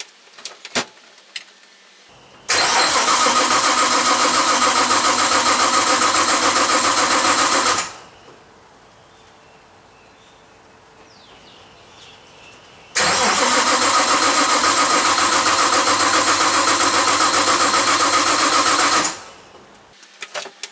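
Nissan Skyline R31 engine being cranked by its starter motor in two bursts of about five to six seconds each, never catching: a cold-start failure. A few small clicks come before and between the cranking.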